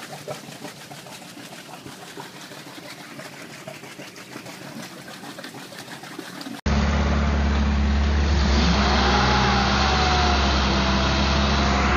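Faint low noise for the first six seconds or so. Then a sudden cut to a Lada Niva's engine running steadily and much louder, with a rushing noise of water spray and a whine that rises and wavers in pitch.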